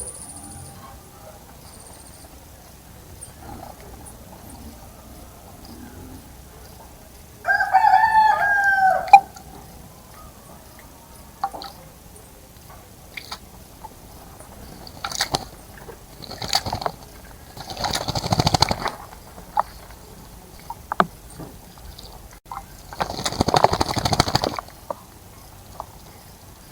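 A rooster crows once, a pitched call of under two seconds about a third of the way in. Later come short splashes and two longer bursts of splashing, a bird bathing in a bird bath.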